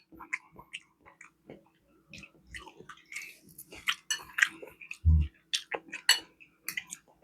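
Close-miked chewing: wet mouth smacks and small irregular clicks of someone eating, with a short low hum about five seconds in.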